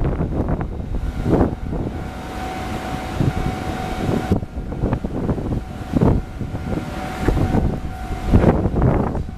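Coal freight train hauled by an R20 diesel-electric locomotive rolling over a level crossing: heavy, irregular clatter and knocks of wheels on the rails, with a steady high tone running above it and wind buffeting the microphone.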